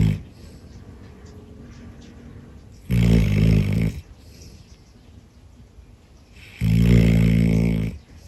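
A sleeping dog snoring: the end of one snore at the very start, then two long pitched snores about three and a half seconds apart, each lasting about a second, with quiet between.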